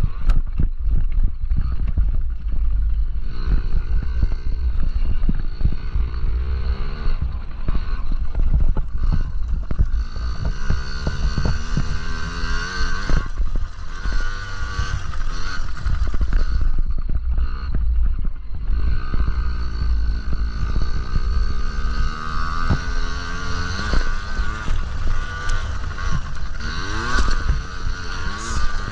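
Small two-stroke Yamaha PW50 minibike engines buzzing, their pitch rising and falling again and again as the bikes rev and back off around the track, over a steady low rumble.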